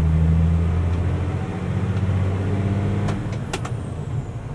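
Mercedes-Benz Unimog U500 turbo diesel pulling under load, its turbo whistle slowly rising in pitch. About three seconds in the throttle comes off: the whistle falls away and the engine note drops, followed by a couple of sharp clicks.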